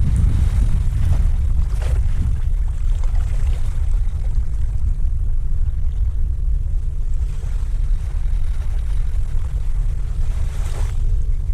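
Wind buffeting the microphone as a steady low rumble, with a couple of faint brief noises about two seconds in and near the end.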